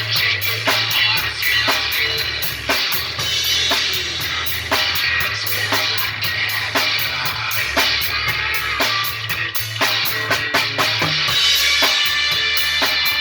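Instrumental rock music: a drum kit plays a steady, driving beat with bass drum and snare over bass and electric guitar.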